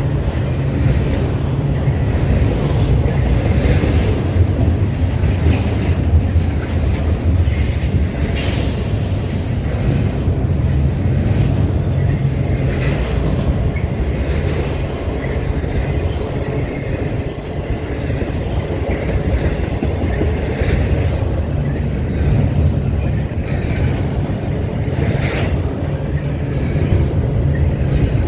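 Train rolling past with a steady heavy rumble and rapid clicking of wheels over the rail joints, and a brief high wheel squeal about eight seconds in.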